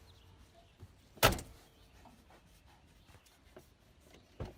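A single loud thump a little over a second in, with a softer knock near the end.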